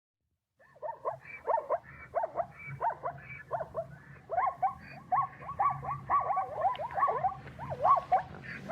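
An animal making many short, squeaky calls, each swooping up and down in pitch, about two or three a second, over a low steady hum.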